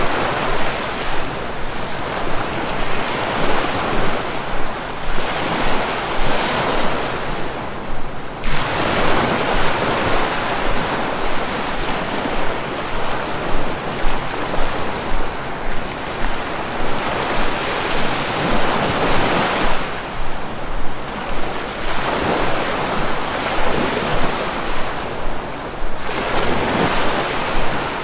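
Sea waves breaking and washing, a continuous rush that swells and ebbs in long surges every several seconds.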